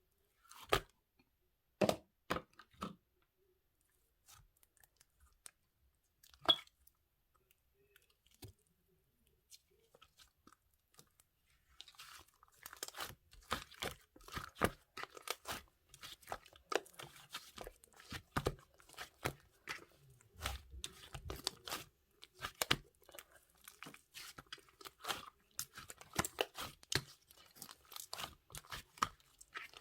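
Crunchy chewing of something crisp: a few separate crunches at first, then rapid, continuous small crunches from about twelve seconds in.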